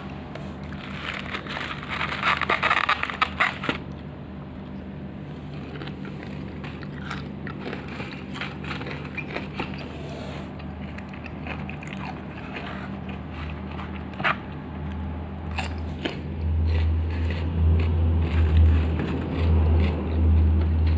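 Close-up eating of crispy battered fried chicken (ayam geprek): crunchy bites and chewing, with a burst of crackling about a second in and scattered crisp clicks. Heavier low thumps near the end, over a faint steady low hum.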